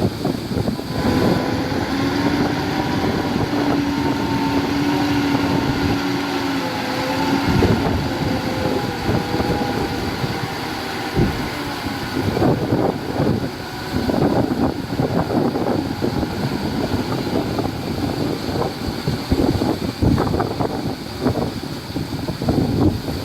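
Diesel engine of heavy earthmoving machinery running under load, with wind buffeting the microphone. A steady engine tone holds for the first several seconds, then gives way to rougher, clattering noise in the second half.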